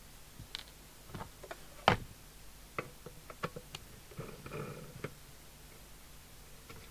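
Sharp irregular clicks and small knocks of a Maxcom 4E CB radio's case and screws being handled as the set is opened up, with the loudest click about two seconds in.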